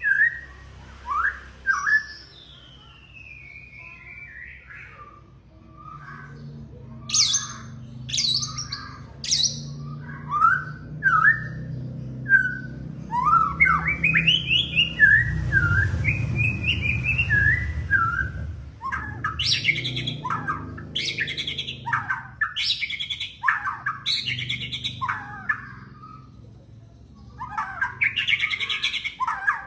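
White-rumped shama (murai batu) singing a long, varied song of rising and falling whistles mixed with harsher chattering notes, with a low hum underneath in the middle stretch.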